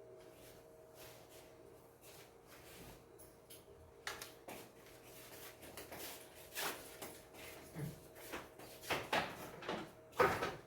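Light clicks and knocks of household objects being handled, with a faint steady hum underneath.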